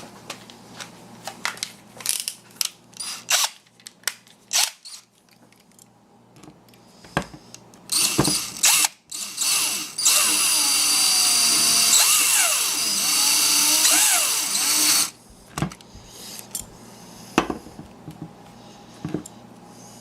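Power drill running in short bursts about eight seconds in, then for about five seconds with its pitch rising and falling, fastening the cover plate back onto a power window motor's gear housing. Light clicks and taps of parts being handled come before and after it.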